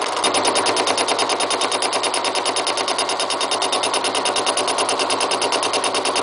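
A fly cutter on a milling machine taking a cut across the steel face of a railroad-track anvil, its single cutting tool striking the metal once each turn in a rapid, even chatter over the running machine.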